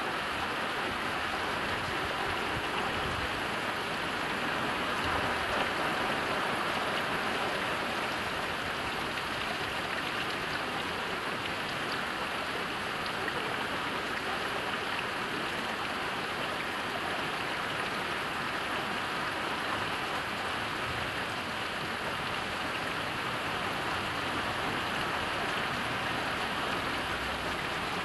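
Steady heavy rain, a dense even hiss of drops falling on the ground and surfaces.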